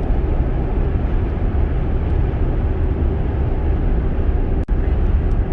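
Steady road and wind noise of a Tesla Model X electric SUV driving along, heard from inside the cabin, deep and even with no engine note. It cuts out for an instant near the end.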